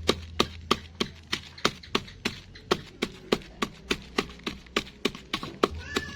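Bird feed pellets being pounded to crumbs with steady, even knocks, about three a second.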